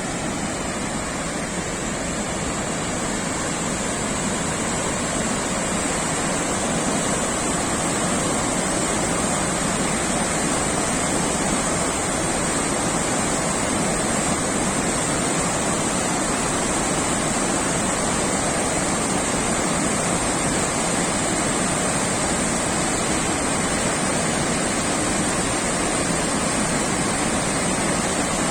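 A river in flash flood, its fast-moving floodwater rushing in a loud, steady, unbroken noise.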